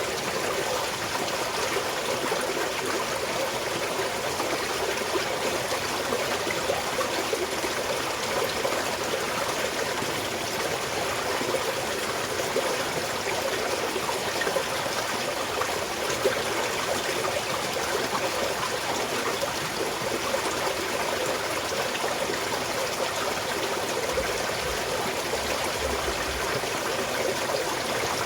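Small mountain stream flowing and trickling over rocks: a steady, even rush of water with fine splashing detail.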